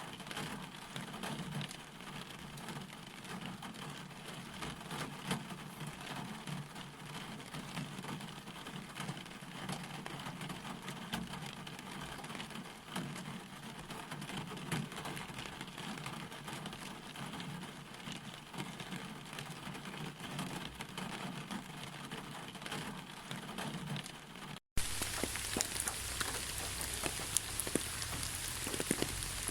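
Steady rain falling, a dense patter of drops hitting surfaces. About 25 seconds in, the sound drops out for an instant. A brighter, slightly louder rain recording then takes over.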